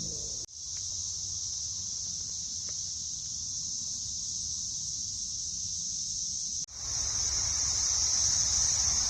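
A chorus of cicadas buzzing as a steady high-pitched drone. It dips out briefly about half a second in and again near seven seconds, and is louder after the second dip.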